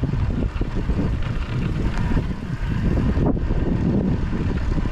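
Wind buffeting the microphone of a chest-mounted GoPro while mountain biking, a loud, steady rumble.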